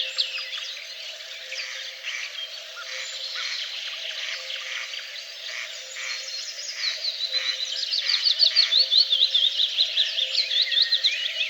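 Songbirds singing in rapid trills of high, quick downward chirps, loudest in the second half, with a series of evenly repeated lower calls through the middle and a faint steady hum underneath.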